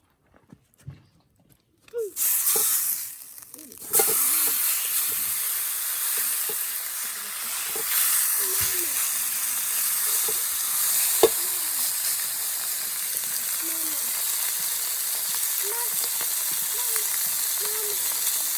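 Food frying in a skillet over a campfire. The sizzle starts abruptly about two seconds in, surges, then settles into a steady hiss.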